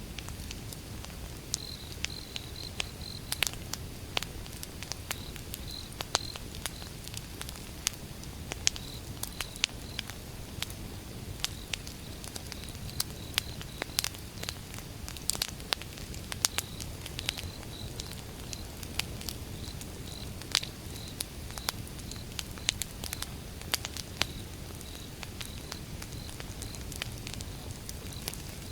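Wood fire burning: a low rumble of flames with irregular sharp crackles and pops from the burning logs. A high chirp at one fixed pitch repeats a few times a second in the background.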